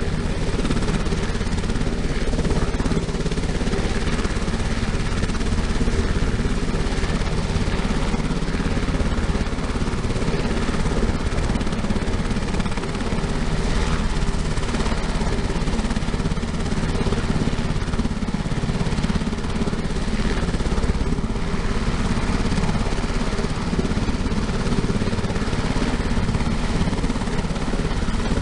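UH-60M Black Hawk helicopter running steadily, a constant mix of turbine engine and rotor noise with a few steady low tones.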